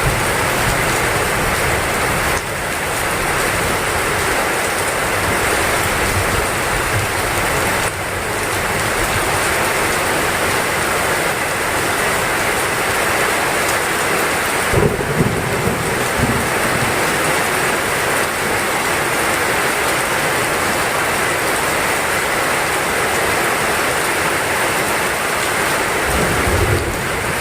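Heavy rain falling steadily, with low rumbles of thunder about halfway through and again near the end.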